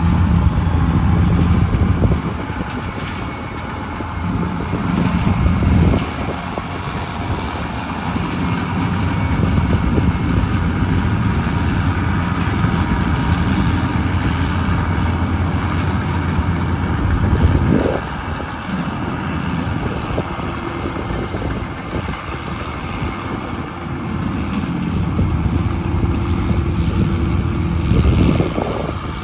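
Combine harvester's diesel engine and threshing machinery running continuously while harvesting paddy rice, the low engine note swelling and easing several times as the load changes.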